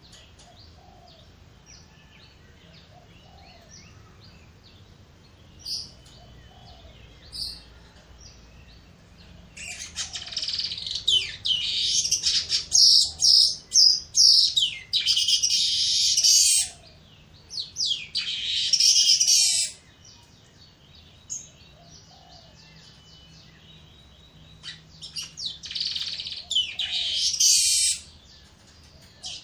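Weaver birds (manyar) singing: a few faint scattered chips, then about ten seconds in, loud bouts of rapid, dense, high-pitched chattering song that come and go three times.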